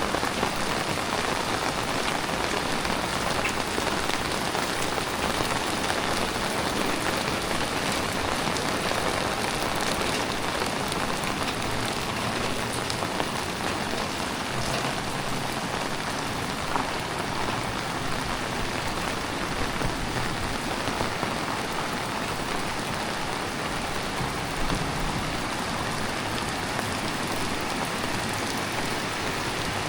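Heavy tropical rain falling steadily, with a dense hiss of drops hitting the ground and nearby surfaces and a few sharper drips standing out now and then.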